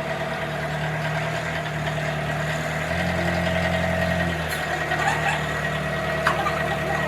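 A motor running steadily with a hum. The low part of the hum shifts and grows stronger for about a second, from roughly three seconds in.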